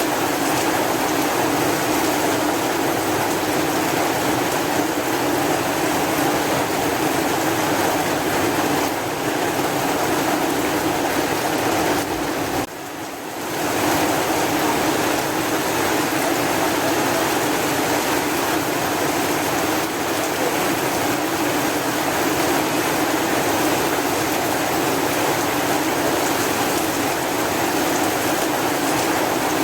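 Steady rain falling in an even hiss, with a short dip about halfway through.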